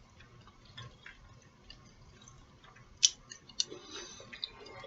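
Faint eating sounds during a salad meal: small scattered clicks, then a few sharper crisp clicks about three seconds in, followed by a short cluster of small noises.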